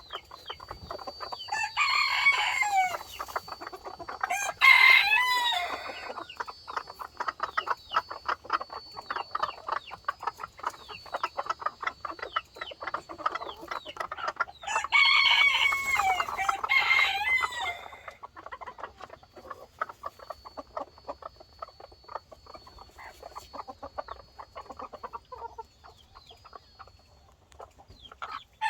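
Chickens clucking steadily, with a rooster crowing near the start and again about halfway through.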